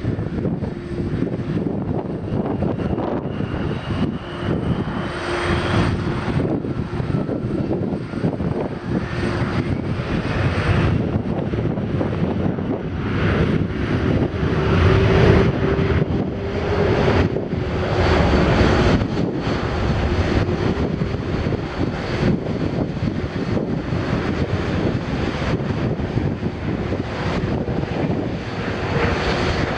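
Boeing 767-300ER jet engines running with a continuous rush and hum, with faint high whines that slide in pitch. Wind gusts buffet the microphone.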